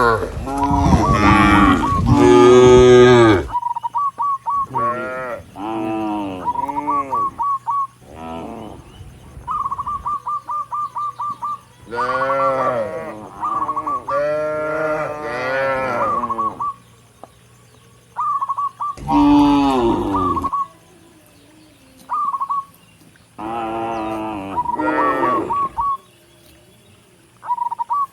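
Cattle mooing: long calls overlap and are loudest in the first few seconds, then come one at a time every few seconds. A rapid series of short high chirps recurs between the calls.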